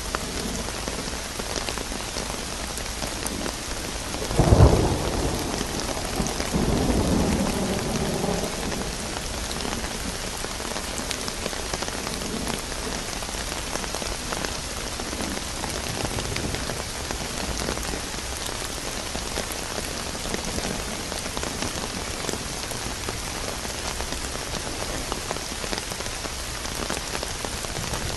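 Steady rain falling, with a sharp clap of thunder about four and a half seconds in, followed by a rolling rumble that dies away over the next few seconds.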